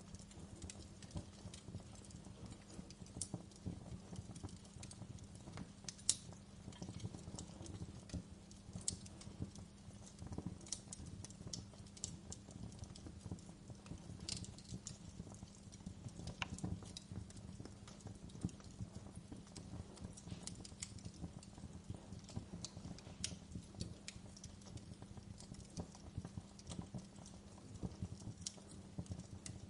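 Wood fire in a fireplace crackling, with frequent irregular sharp snaps and pops over a low steady rumble; one louder pop about six seconds in.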